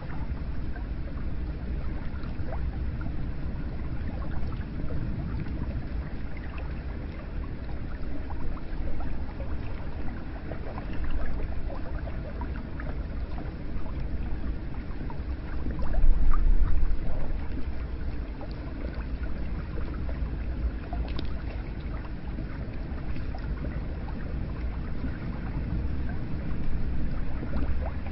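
Hot spring water flowing and splashing steadily, with a louder surge about sixteen seconds in.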